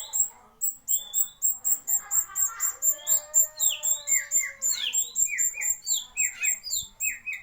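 Small birds calling, the lure call of rio-rio birds: a fast, even run of very high thin notes, about four a second, over sharp down-slurred whistles that come thicker from about halfway through.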